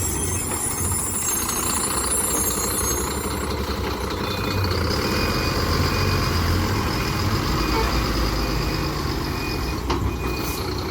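Heavy loaded truck's diesel engine running with a low, steady rumble. About halfway through, a reversing alarm starts beeping at an even pace, about one and a half beeps a second.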